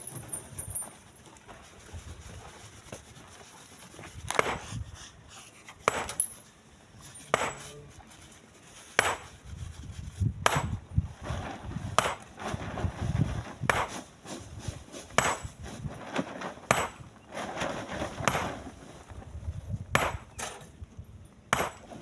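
Split stones being thrown by hand into a truck bed, landing as heavy clunks about every one and a half seconds.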